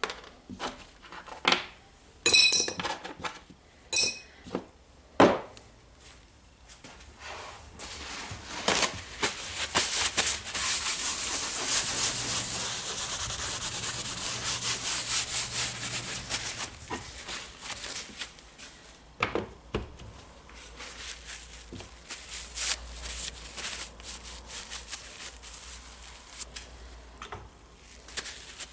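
Small metal parts of a rotary hammer's striking mechanism clicking and clinking as they are handled, a few of them briefly ringing. This is followed by about ten seconds of steady rubbing or scrubbing, then a few more scattered clicks.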